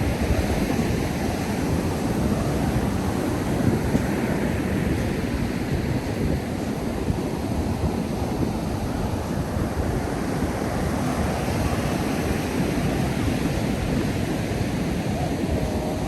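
Ocean surf breaking and washing up a sandy beach, a continuous rush that swells and eases, with wind rumbling on the microphone.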